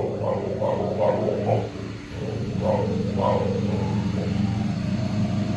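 Micro bully dog barking and grumbling in a run of short calls during the first three and a half seconds, at a Roomba robot vacuum that runs with a steady low hum.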